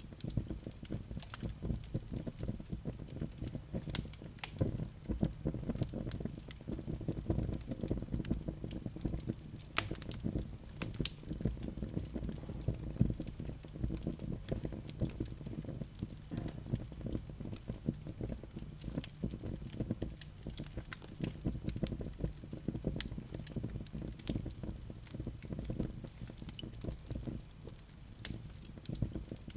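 Wood fire burning in a fireplace: frequent, irregular crackles and sharp pops over a steady low rumble of the flames.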